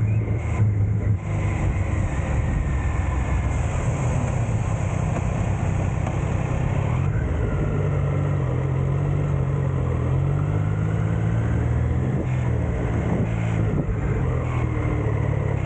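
Triumph Tiger Sport 660's three-cylinder engine running at low, fairly steady revs, its pitch drifting gently up and down.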